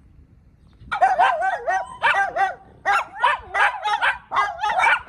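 Miniature dachshund giving a rapid string of high, whiny yelps and barks, starting about a second in.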